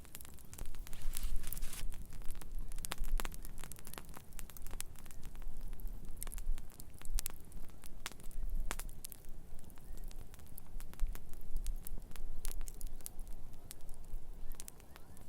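Wood campfire crackling, with irregular sharp snaps and pops scattered through it over a low, uneven rumble.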